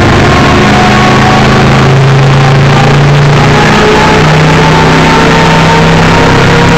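The PJ-II Dreamer's engine running loudly at a steady speed on a test run, driving its fans. Its pitch steps up slightly about halfway through.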